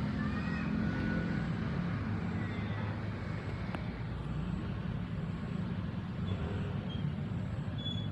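Steady low engine hum, with a few short high chirps over it.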